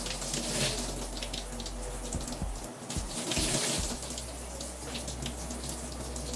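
Running tap water splashing, with scattered small clicks and knocks; the spray swells louder about half a second in and again about three and a half seconds in.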